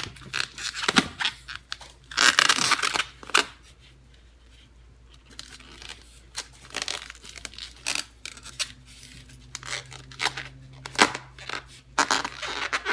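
A latex twisting balloon being handled and knotted: irregular rubbery rubbing and crinkling noises with a few sharp clicks.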